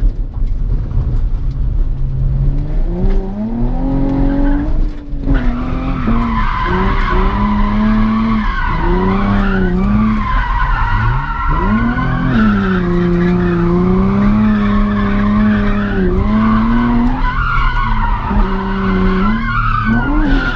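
Drift car sliding: its engine revs rise and fall over and over while the tyres squeal continuously through the slides.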